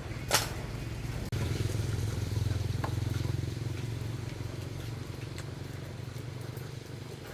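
A small motorbike engine running steadily at idle, with one sharp click near the start.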